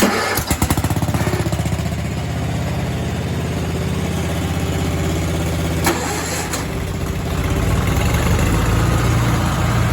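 Small garden tractor engine cranks briefly and catches, then runs steadily. There is a sharp click about six seconds in, and the engine grows louder about seven seconds in.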